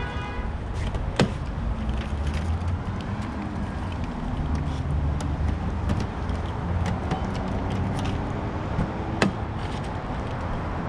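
Steady low rumble of a running vehicle engine, with a sharp click about a second in and another near the end.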